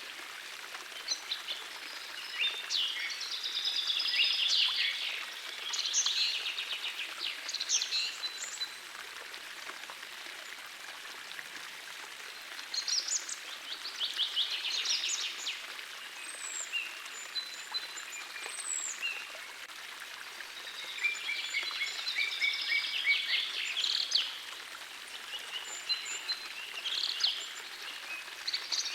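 Songbirds singing in repeated bursts of quick, high chirping and trilling phrases over the steady hiss of a gentle forest stream.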